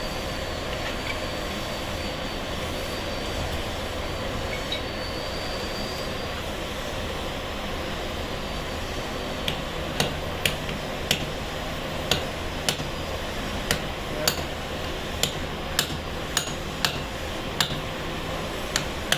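Steady background noise, and from about halfway in, sharp hammer taps on stone at roughly two a second.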